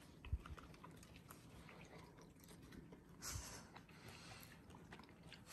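Faint close-up sounds of a person biting and chewing a piece of homemade dog pizza, with scattered small clicks, a soft thump just after the start and a brief rustle a little after three seconds.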